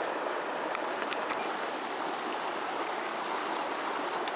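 Mountain stream water rushing steadily over rocks, with a few faint clicks around a second in, near three seconds, and just before the end.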